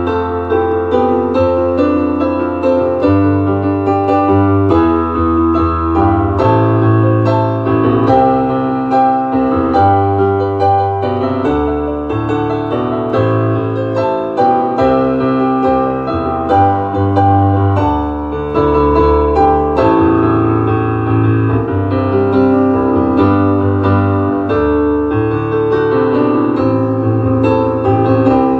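Piano playing an instrumental piece: a steady flow of chords and melody notes over low bass notes held a second or two each.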